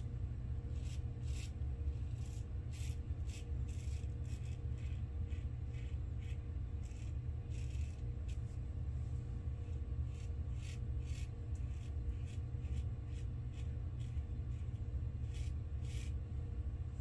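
Single-edge razor with a GEM blade scraping through stubble in short strokes, about one or two a second, on an against-the-grain pass. A steady low hum runs underneath.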